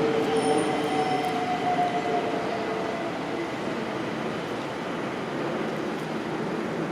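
A passing train runs with a steady drone, and a motor whine sinks slightly in pitch over the first couple of seconds.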